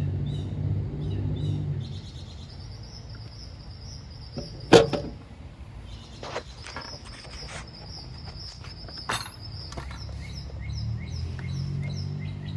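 A few sharp metal knocks and clinks as the replacement pump is worked onto the engine shaft, the loudest a little under five seconds in. Birds chirp in quick repeated series through the middle, over a low steady hum that is there at the start and near the end.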